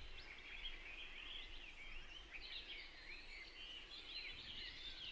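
Faint birdsong: several small birds chirping at once, a steady stream of quick rising and falling notes.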